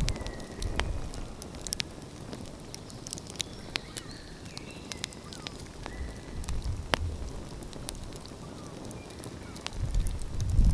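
Outdoor wood fire crackling, with irregular sharp pops and snaps. A low rumble swells up briefly a few times, most strongly near the end.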